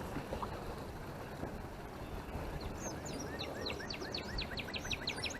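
A songbird singing a quick run of repeated high chirps, about seven a second, starting about halfway in, over a steady low background hiss.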